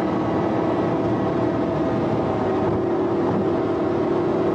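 A vehicle's engine droning steadily at high speed on the road, with wind rushing over the microphone.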